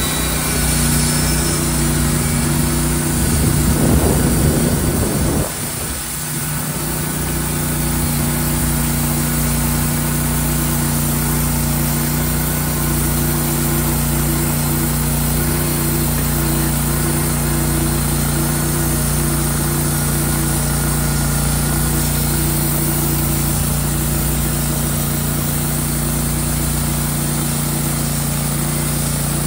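Engine running steadily. It swells louder for a couple of seconds about three seconds in, drops suddenly, then picks back up and holds steady.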